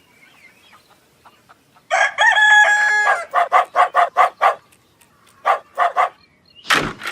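A rooster crowing: one long held call, then a quick run of short notes at about six a second, and two more a second later. A brief loud burst of noise near the end.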